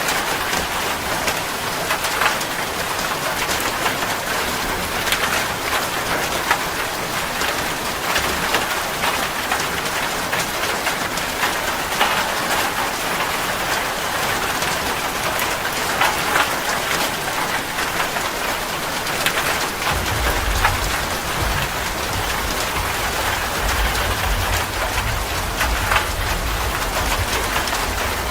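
Steady rain with individual drops clicking and splattering. About two-thirds of the way through, a low rumble of distant thunder comes in under the rain.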